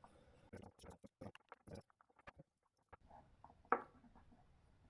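Faint scattered clicks and ticks of a hand driver and small screws being worked into an RC car's skid plate, with one sharper click about three and a half seconds in.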